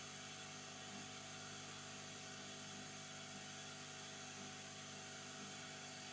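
Steady faint hiss with a low electrical hum underneath, unchanging throughout: room tone with no distinct events.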